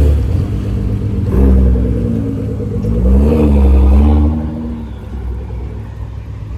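Car engine revving, its pitch rising and falling a few times, then settling to a lower, steadier running sound about four and a half seconds in.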